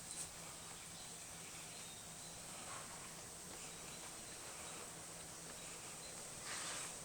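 Faint steady background noise: a constant high-pitched hiss over a low hum, with a few soft brief sounds.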